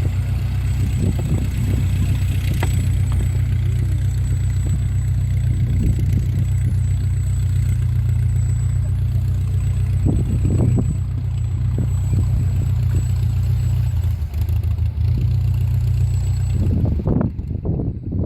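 Propeller aircraft piston engines droning steadily at a low pitch. The sound changes abruptly near the end.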